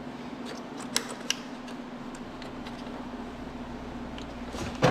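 A few light, sharp plastic clicks as a push-pin trim clip is worked loose, over a steady low hum, with a louder knock near the end.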